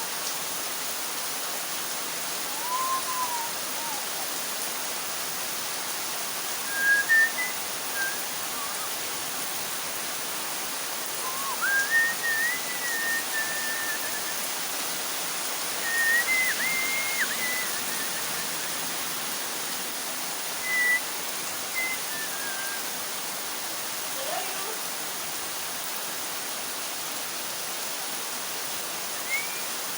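Heavy rain falling, a steady even hiss. Short high whistle-like notes cut through it every few seconds, some held briefly and some sliding up or down; they are the loudest sounds.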